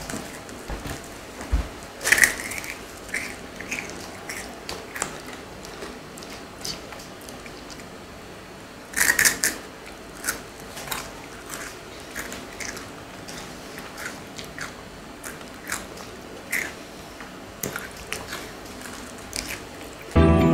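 Chewing and crunching of chocolate-coated Rice Krispie treats: irregular small crackles, with louder crunches about two seconds in and about nine seconds in. Music starts right at the end.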